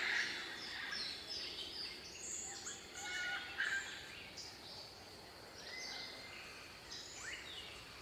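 Birds calling over each other: many short chirps and whistling notes, some sliding in pitch, with louder, harsher calls near the start and again about three and a half seconds in.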